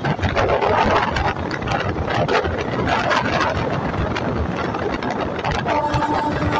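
Passenger train running along the track, heard from aboard: a dense clatter of wheels on the rails with rushing wind on the microphone. Near the end a steady pitched tone sets in over it.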